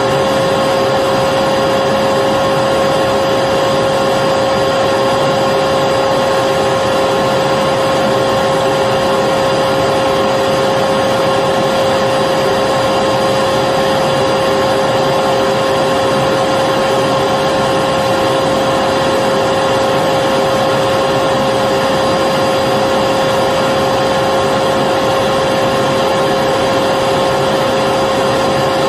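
Electric vacuum cleaner motor running steadily, a constant whine over a rushing hiss of air, with no change in pitch or level.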